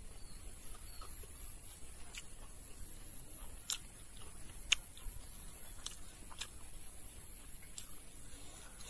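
A person chewing a mouthful of food, with a few scattered sharp mouth clicks and smacks.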